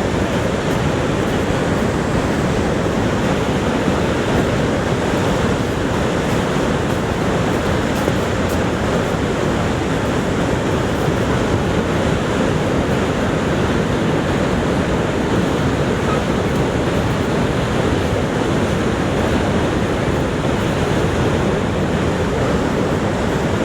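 Niagara Falls: the steady, deep rush of a huge volume of falling water, unbroken and unchanging.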